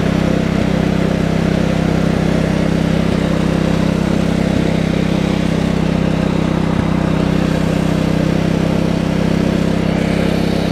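A tractor engine running steadily at a constant speed, with a deep, even drone that does not rise or fall.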